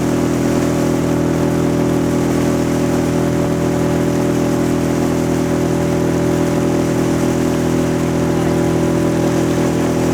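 A motor running at a steady speed: an even hum of several tones that holds without change.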